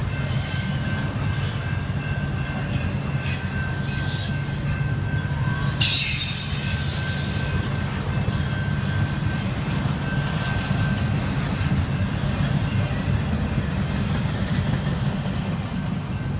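Norfolk Southern double-stack intermodal freight train rolling past with a steady low rumble from its wheels and well cars. Short high-pitched metal squeals come and go, the loudest about six seconds in.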